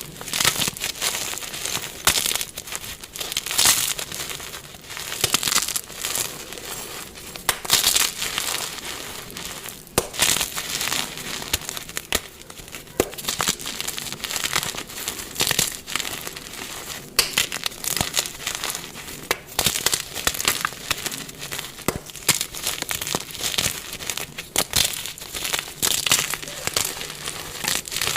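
Dyed gym chalk blocks being crushed and crumbling, with crisp crunching and crackling that comes in irregular repeated bursts.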